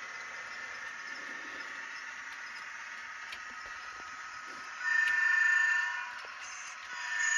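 Model train horn sounding two held blasts, the first about five seconds in and lasting about a second, the second starting near the end, over a steady background of layered tones.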